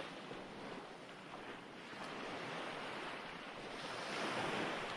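Recorded ocean waves washing onto a shore: a steady rush of surf that ebbs and then swells again as the next wave comes in.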